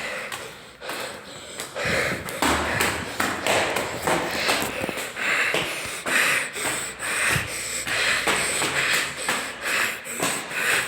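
A person breathing hard in quick, heavy pants, worn out from climbing many flights of stairs, with light taps of footsteps mixed in.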